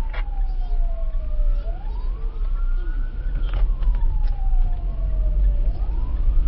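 A siren wailing slowly, its pitch sliding down, up, down and up again in long sweeps of about two seconds each, over a steady low rumble of vehicle and road noise.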